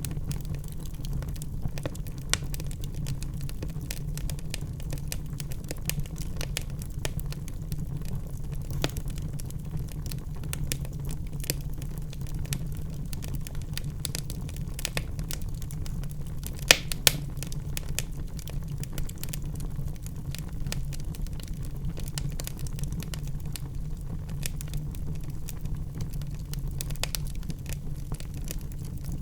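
Wood fire burning in a fireplace: constant small crackles over a steady low rumble, with two sharper pops close together about halfway through.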